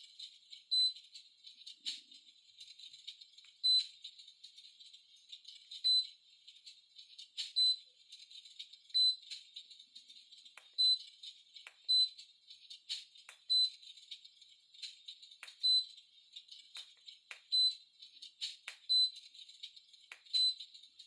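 Electric fireplace's control unit giving a short high beep about every one to two seconds, about a dozen in all, as its flame modes are switched one after another. Underneath runs a faint, steady high crackle with sharp pops.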